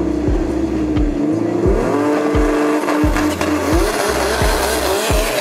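Turbocharged drag car revving on the start line, its pitch climbing about two seconds in, then pulling away near the end, over background music with a steady beat.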